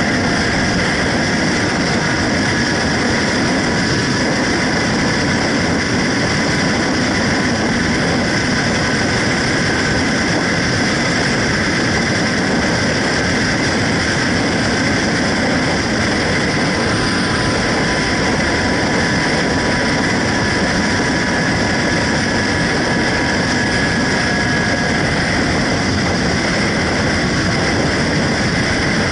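Steady, unbroken motorcycle engine and road noise, holding the same level throughout with no revving.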